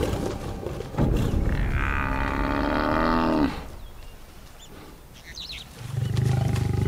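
African buffalo bull bellowing in distress as lions hold onto it: one long moaning call that drops in pitch as it ends, after a thud about a second in. A low rumbling growl rises near the end.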